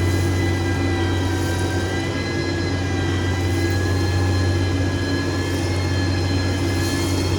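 Heavy road-construction machine's diesel engine running steadily under load, a deep even hum with a steady high whine above it.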